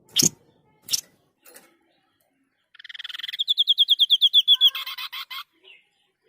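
White-breasted babbler (sniper bird) giving its trilled call: a rapid, evenly spaced run of high notes, about seven a second, rising slightly in pitch and ending in a short, lower rattle. Two sharp clicks come before it, in the first second.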